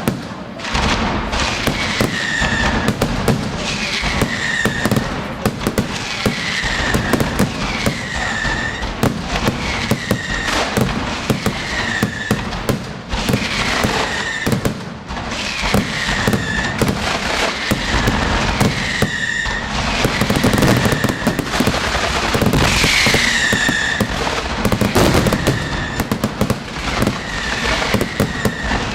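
Aerial fireworks display firing a dense, continuous barrage of bangs and crackle. A short falling whistle repeats about every two seconds over it.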